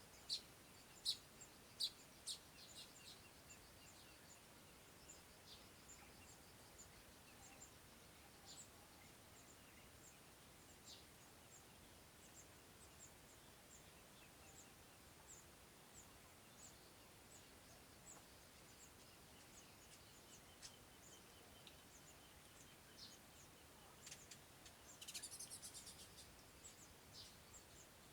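Small bird chirping: a few sharp, high chirps in the first two seconds, then faint chirps repeating at intervals, with a quick run of chirps about 25 seconds in.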